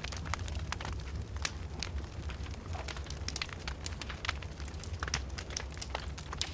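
Open fire in a fireplace crackling, with frequent irregular sharp pops and snaps over a steady low rumble.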